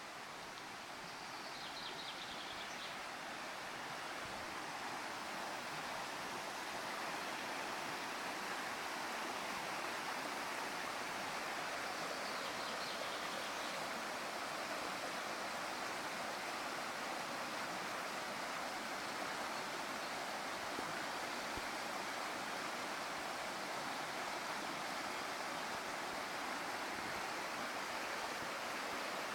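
Steady rush of flowing water, like a stream, growing louder over the first several seconds and then holding even.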